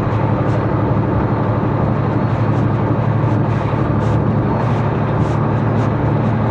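Diesel engine of a semi truck heard from inside the cab, a steady low drone while rolling slowly, with faint light ticks here and there above it.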